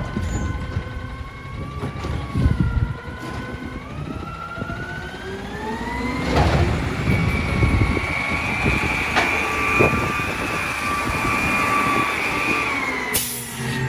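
Heil Durapack Rapid Rail automated side-loading garbage truck revving up to drive its hydraulics. A whine climbs over several seconds, holds high, and falls away near the end, over the engine's rumble, with a few sharp knocks in the middle.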